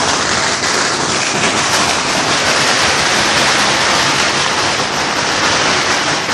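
A long string of firecrackers going off in a rapid, unbroken crackle, loud and dense like heavy rain.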